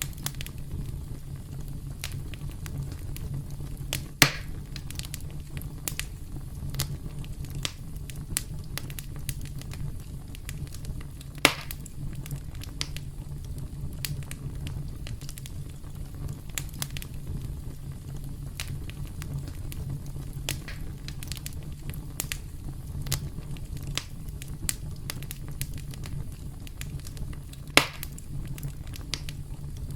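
Campfire crackling steadily over a low rumble of burning, with many small snaps and three louder pops, at about four seconds, eleven seconds and near the end.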